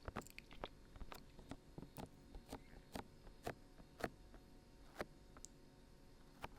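Faint, irregular short clicks and taps, about one or two a second.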